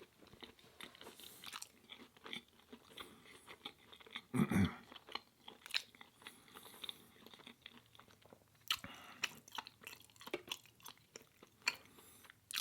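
A person chewing and crunching food close to the microphone: irregular small clicks and crackles of a plant-based burger and crinkle fries being eaten, with one louder, deeper sound about four and a half seconds in.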